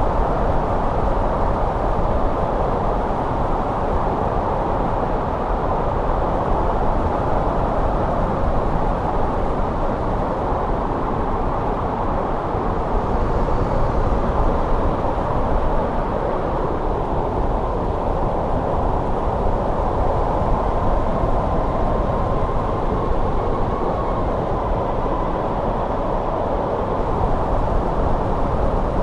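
Steady, loud winter wind blowing in a snowstorm, a dense low rush with a faint whistling note coming in during the second half.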